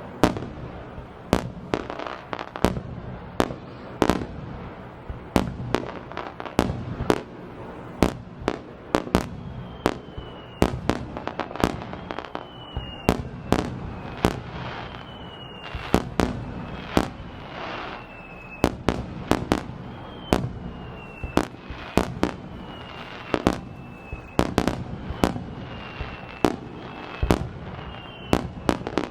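Aerial fireworks display: a steady barrage of sharp shell bursts, about one or two a second. From about ten seconds in, short falling whistles repeat among the bursts.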